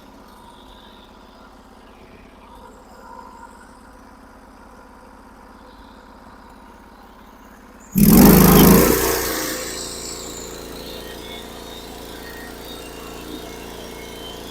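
Band sawmill with a freshly changed blade: a low steady engine hum, then about eight seconds in a sudden loud burst as the mill's engine comes up, settling into a steady run as the saw cuts the pine log.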